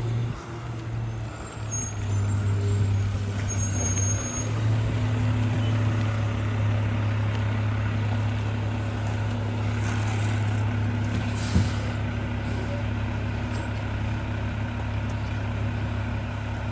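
Garbage truck's engine running steadily at raised speed to drive the hydraulic packer as it compacts Christmas trees, with a single sharp knock about eleven and a half seconds in.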